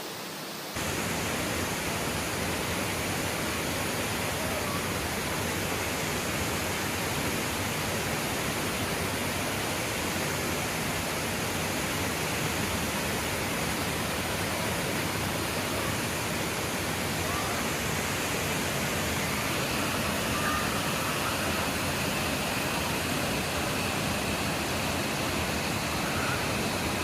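Waterfall pouring, a steady rush of falling water that steps up in loudness less than a second in.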